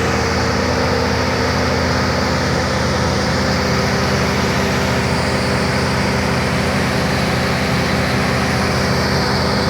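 A large engine running steadily at an unchanging pitch.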